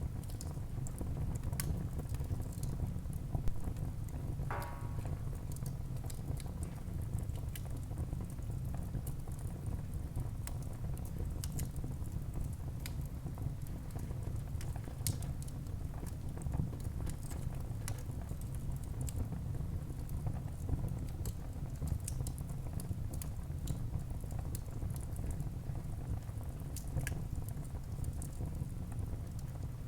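Wood fire burning in a fireplace: a steady low rumble of flames with scattered sharp crackles and pops from the burning wood, and a brief whistling hiss about four and a half seconds in.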